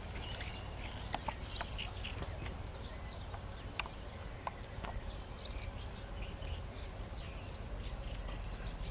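Birds chirping in short, scattered calls over a steady low rumble, with a few sharp clicks, the clearest about four seconds in.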